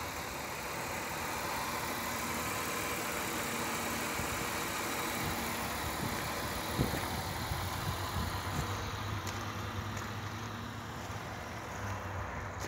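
Chrysler 300M's 3.5-litre V6 engine idling steadily under the open hood.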